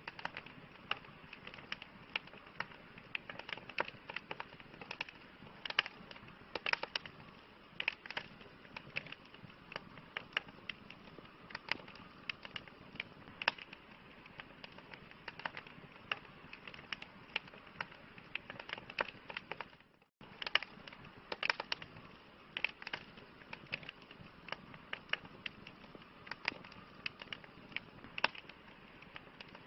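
Campfire crackling: irregular sharp pops and snaps over a steady soft hiss of burning wood. The sound drops out for a split second about two-thirds of the way through.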